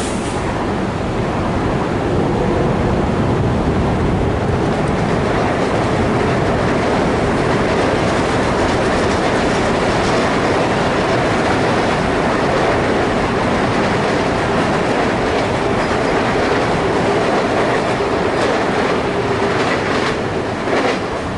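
A train running past on the tracks: a steady, loud rumble of wheels on rail with a faint hum, and a few sharp clicks over the rail joints near the end.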